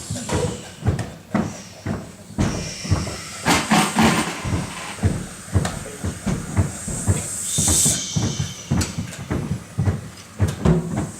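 A group improvising with body sounds: many irregular knocks, stamps and scuffs overlapping, with bursts of hissing and shushing rising and falling through the texture.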